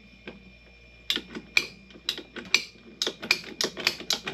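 Rapid, irregular sharp clicks from a hand tool working on a copper water line, starting about a second in and coming faster from about three seconds in.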